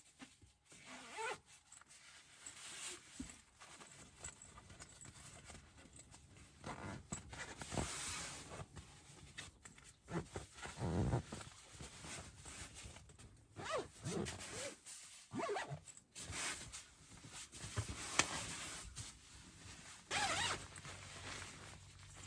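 A zipper being pulled in a series of short, irregular strokes, several times over.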